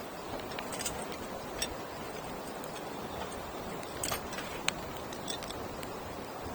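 Wood campfire burning: a steady hiss with irregular sharp crackles and pops, the loudest cracks about four to five seconds in.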